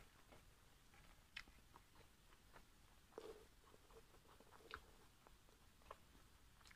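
Faint wet mouth clicks and smacks of someone chewing a steamed pork momo, scattered soft ticks about every half second, with one fuller smack about three seconds in.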